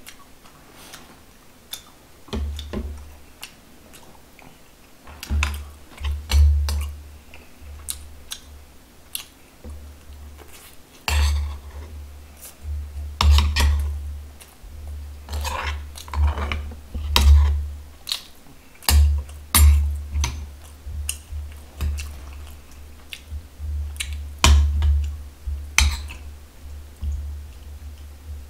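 Close-miked chewing of food, with a metal spoon clicking and scraping against stone and ceramic bowls at irregular moments.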